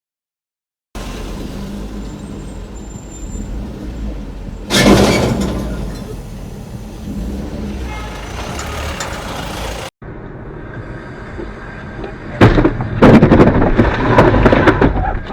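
Road and vehicle noise broken by a loud sudden crash-like burst about five seconds in. After a cut, a longer, louder burst of sharp knocks and crunching follows near the end, like a vehicle collision.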